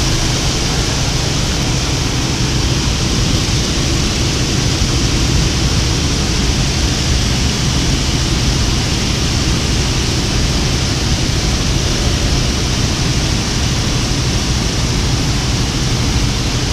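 Steady drone of an aircraft's engine with rushing air noise, heard from inside the jump aircraft's cabin.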